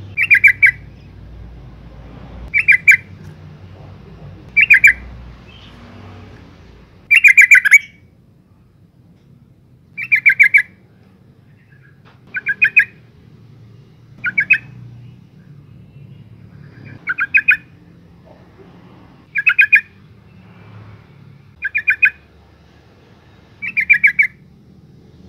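Female yellow-vented bulbul calling: short bursts of quick chattering notes, repeated about every two seconds, eleven times.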